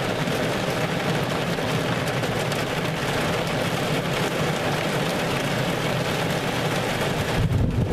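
Strong storm winds and rain beating down, a steady dense hiss. Near the end the hiss thins and a low wind rumble on the microphone swells.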